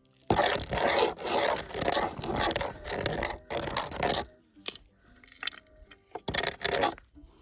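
A digging tool scraping through dirt in a run of repeated strokes for about four seconds, then one more short scrape near the end, as a metal-detector target is dug out.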